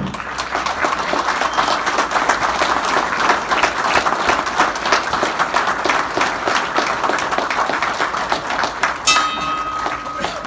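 Audience applauding steadily: many hands clapping. A steady high tone comes in about nine seconds in, as the clapping starts to thin.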